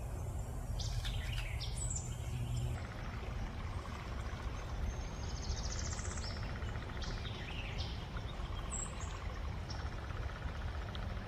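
Small songbirds chirping and calling in short high notes, with a buzzy trill about halfway through, over a steady low rumble.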